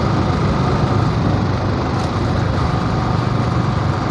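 Motorcycle engine running steadily while being ridden, a constant low hum under a dense rushing noise.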